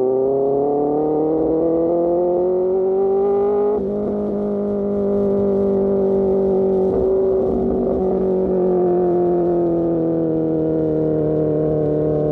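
Superbike engine through an Austin Racing GP1R exhaust, revs rising under acceleration, then a quick upshift about four seconds in, after which it holds fairly steady revs that ease slightly toward the end.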